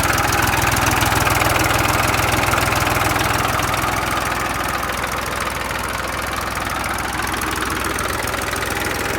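Massey Ferguson 1035 tractor's three-cylinder diesel engine running at a steady speed, a little louder over the first few seconds, then settling.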